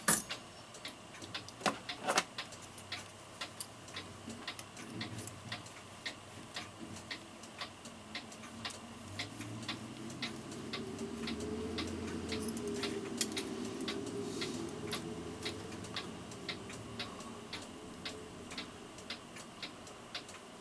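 A mechanical clock ticking steadily, about two ticks a second, with a few louder clicks near the start. In the middle a low, rough sound swells up and fades away under the ticking.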